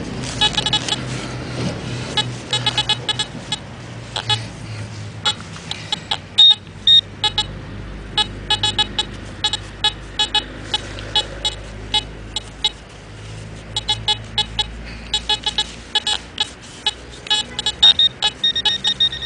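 Metal detector beeping over a shallow coin target: bursts of short, high beeps, several a second, with a quieter stretch about two-thirds of the way in.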